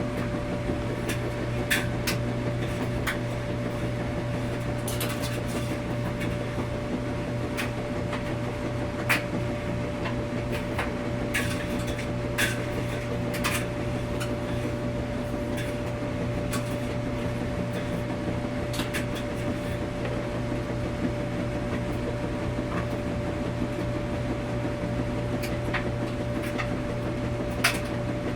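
Washing machine running with a steady hum and a constant mid tone, with irregular clicks and knocks every second or two.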